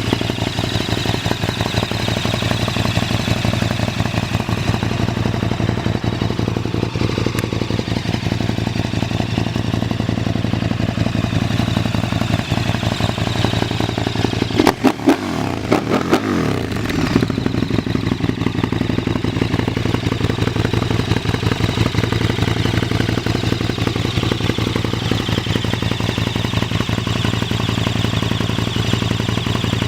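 KTM 1290 Super Duke R's big V-twin idling through an aftermarket Arrow exhaust with a steady, loud beat. About halfway through it is blipped a few times in quick succession, the pitch jumping up and falling back, then it settles back to idle.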